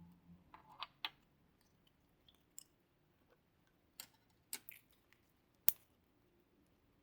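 Slime being mixed and pressed by hand, giving scattered sticky clicks and pops, about eight in all, the sharpest a little before the end.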